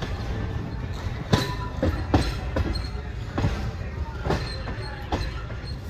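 Express train coach rolling over the tracks: a steady low rumble broken by about seven sharp, irregularly spaced wheel clanks over rail joints and points.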